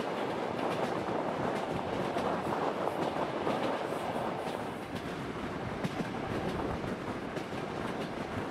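Passenger train running at speed: a steady rumble of wheels on rails with scattered sharp clicks.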